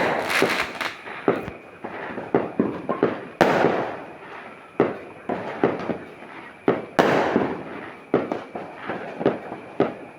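Fireworks and firecrackers going off: a steady string of sharp cracks and pops, with bigger, longer-ringing blasts at the start, about three and a half seconds in, and about seven seconds in.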